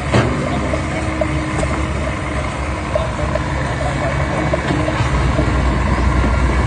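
A machine engine running steadily, with a sharp click just at the start and a low drone that grows louder about five seconds in.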